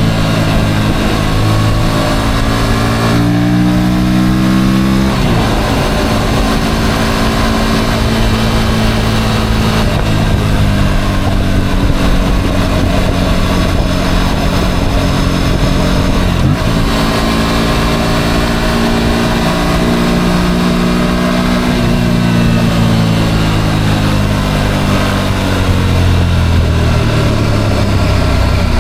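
Motorcycle engine running under way: its pitch climbs as it accelerates and drops suddenly three times at the gear changes, then falls steadily near the end as the bike slows.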